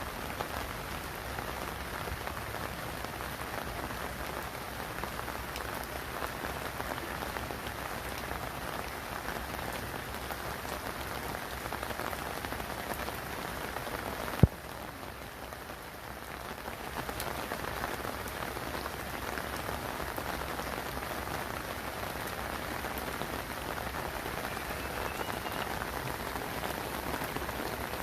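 Steady rain falling, a continuous even patter. About halfway through there is a single sharp click, after which the rain is briefly quieter before returning to the same level.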